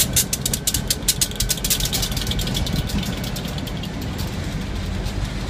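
CP Rail diesel freight locomotive and the rail-loaded flatcars behind it passing close by: a low, steady engine drone under fast, sharp clicking of the wheels on the track for about the first two seconds, settling into a steady rolling rumble.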